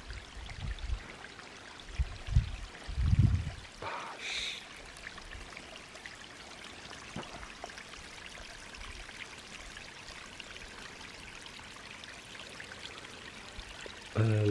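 Steady rush of running water, like a stream. A few low rumbles, likely wind on the microphone, come in the first four seconds, and a short high chirp sounds about four seconds in.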